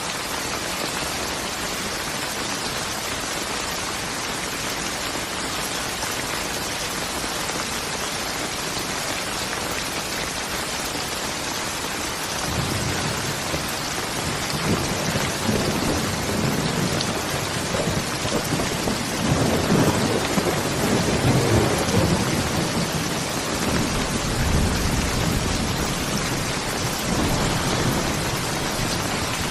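Steady rain pouring down. About twelve seconds in, a long low roll of thunder begins, swelling to its loudest about two-thirds of the way through and then rumbling on more softly.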